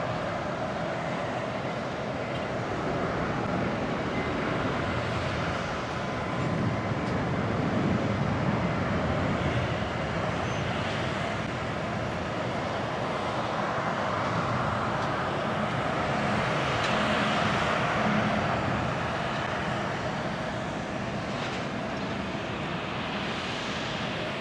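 Airliner's jet engines at takeoff thrust: a steady rushing noise with a held whining tone, swelling louder twice as the aircraft passes.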